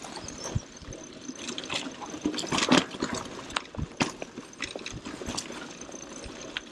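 Mountain bike riding over a rough, rocky trail: tyres crunching on loose stones and the bike rattling with many irregular knocks, the loudest jolts about two and a half to three seconds in.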